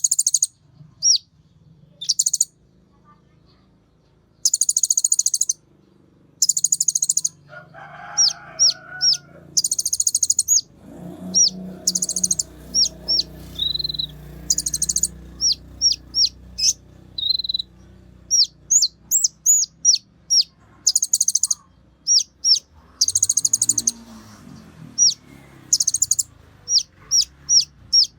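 Konin songbird singing high-pitched: trills about a second long, repeated many times, alternating with quick, sharp single chirps. A faint low clucking or crowing-like call sits in the background near the middle.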